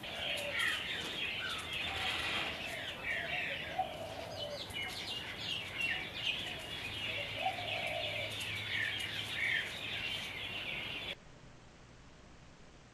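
Background birdsong: many small birds chirping and twittering in quick short calls. It cuts off suddenly about eleven seconds in, leaving only faint room tone.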